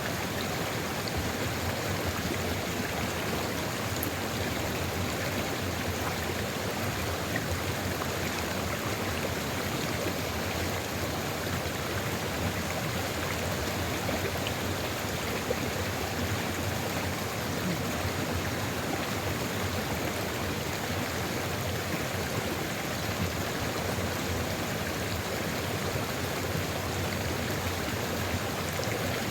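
Sulfur river flowing steadily, a continuous rushing of water with no breaks or changes.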